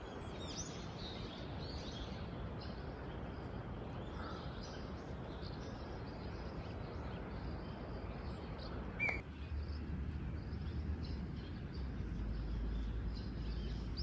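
Birds chirping and calling over a steady outdoor background hiss. A single brief sharp sound comes about nine seconds in, after which a low rumble rises under the birdsong.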